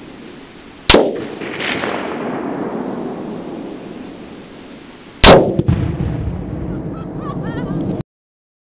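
Tannerite exploding when struck by a rifle shot: a sharp, very loud blast followed by a long rolling echo that fades over several seconds. This happens twice, about four seconds apart. Faint short chirps can be heard near the end.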